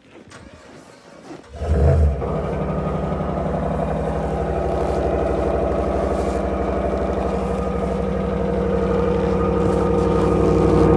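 2022 Ram 1500's 5.7-litre Hemi V8 cold-starting at about −24 °C without a block heater: a short crank about a second and a half in, then it fires right up and runs steadily, growing slightly louder near the end.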